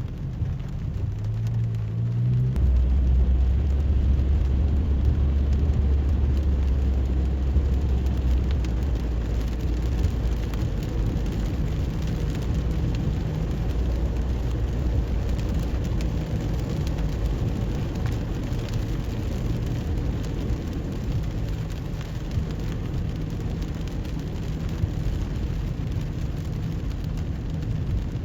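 Car driving on wet roads in the rain: steady hiss of rain and tyres on the wet surface over a low engine hum, which steps down to a deeper tone about two and a half seconds in.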